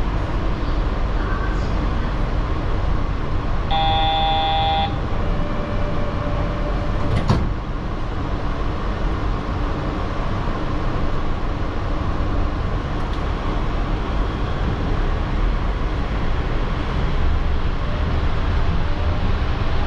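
Yurikamome rubber-tyred automated train with a steady running hum throughout. A short pitched tone signal sounds for about a second, about four seconds in, followed by a single sharp knock about three seconds later. Near the end a rising motor whine begins as the train gathers speed.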